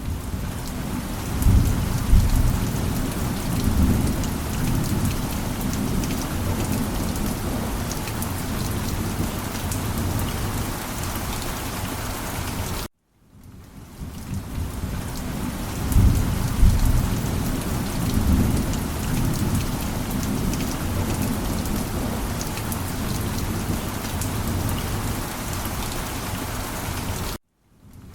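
Steady heavy rain with deep rolling thunder rumbling a couple of seconds after each restart. The sound cuts to silence for a moment about 13 seconds in and again near the end, then fades back in as the recording loops.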